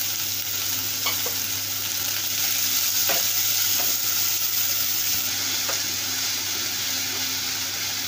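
Chopped green onions sizzling as they fry in hot ghee in a kadhai, stirred with a wooden spatula that scrapes and knocks against the pan a few times.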